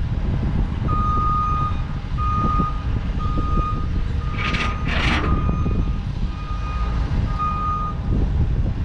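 A truck's reversing alarm beeping roughly once a second over the steady rumble of a running engine, with two short hisses about halfway through.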